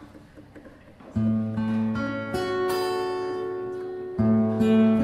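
Acoustic guitar starts the song's intro about a second in, with strummed chords ringing out and a fresh loud chord near the end.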